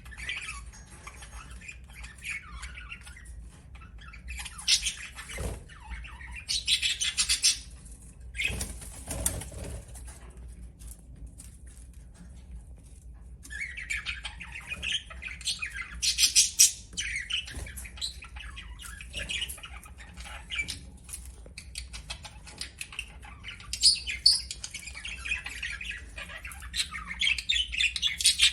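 Pet budgerigars chattering: irregular bursts of chirps and harsh squawks, with a quieter stretch about ten seconds in before the chatter picks up again.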